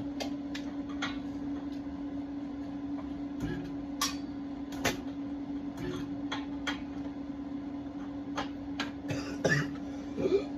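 A steady low hum with scattered sharp clicks and knocks of metal parts and tools being handled.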